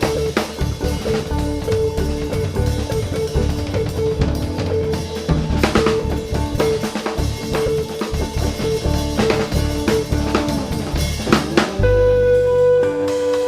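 Drum kit playing a busy passage of snare, bass drum and rimshots over a repeated pitched note. About twelve seconds in, the drumming stops and the band comes in on a held chord.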